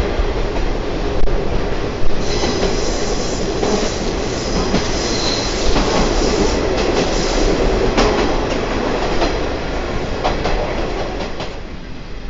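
Open-air trolley train running along the track, the wheels rumbling on the rails with clicks at the rail joints. A high wheel squeal rises about two seconds in and fades after about five seconds, as on a curve, and there is a sharp click near the end.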